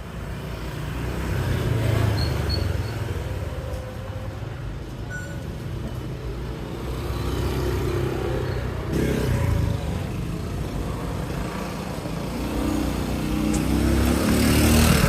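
Yamaha F1ZR's two-stroke single-cylinder engine running, its revs rising and falling a few times and climbing near the end.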